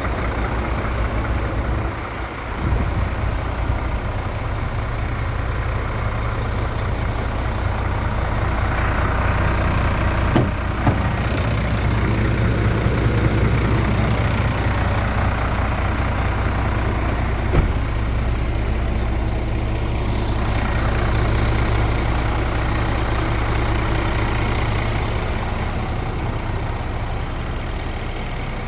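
Scania S500 truck's 13-litre inline-six diesel idling steadily, with a few short clicks.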